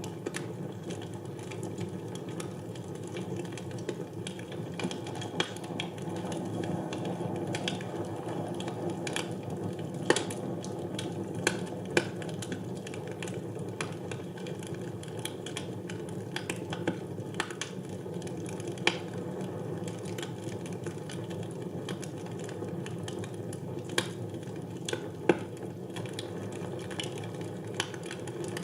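Fire burning in a fireplace: a steady low rush with frequent small crackles and a few sharper, louder pops.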